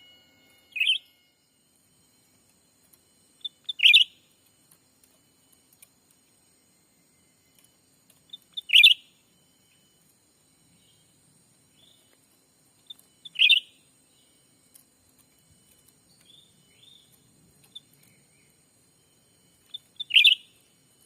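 Cucak ranting bird calls: five short, loud calls spaced a few seconds apart, each preceded by one or two faint, softer notes.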